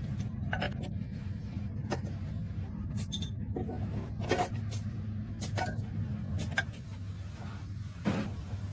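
A steady low engine hum, with irregular sharp knocks and clinks of tools on metal scattered through it, about one every second or so.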